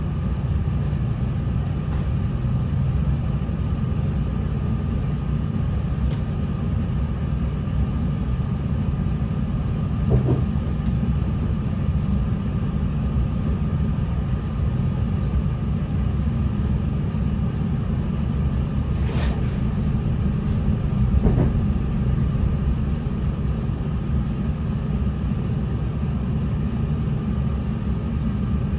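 Interior of a NI Railways Class 3000 (CAF C3K) diesel multiple unit under way: a steady low rumble of the diesel engine and wheels on the rails, with a faint steady whine. A few brief knocks come through, one about a third of the way in and two more just past the middle.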